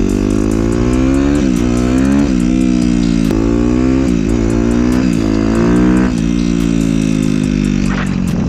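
2015 Suzuki RM-Z250 dirt bike's single-cylinder four-stroke engine accelerating through the gears, its pitch climbing and dropping sharply about six times at each shift. It then settles into a steady cruise about six seconds in.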